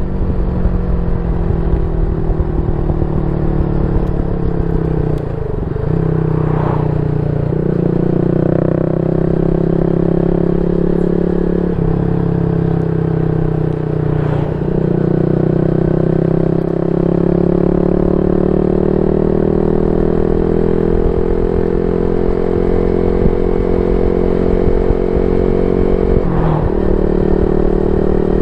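Yamaha Y15ZR 150cc single-cylinder motorcycle engine running through a YYPANG SD3 aftermarket exhaust. The exhaust note holds steady and drifts slowly up and down in pitch, with a few brief breaks where the note jumps to a new pitch.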